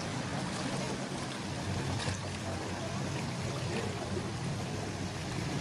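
Canal ambience: water splashing and lapping over the steady low hum of a boat engine.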